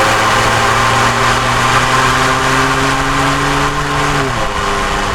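Ford F-150's 3.5-litre EcoBoost twin-turbo V6 running loud through a Flowmaster American Thunder stainless cat-back exhaust with a 40-series Delta Flow muffler. The engine note holds steady and climbs slightly in pitch, then drops sharply a little over four seconds in.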